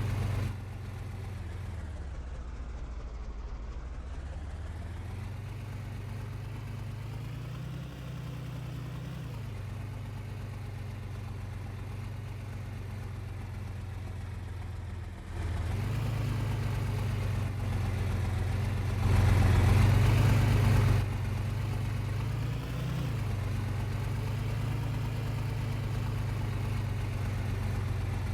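A vehicle engine running steadily with road noise. The overall level drops about half a second in and rises again about halfway through, and a louder rush of noise lasts about two seconds past the middle.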